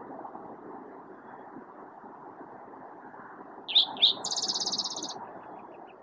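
Spotted towhee singing: two short, sharp notes about three and a half seconds in, followed at once by a rapid trill lasting about a second, which trails off into fainter repeated notes. Steady low background noise lies under the song.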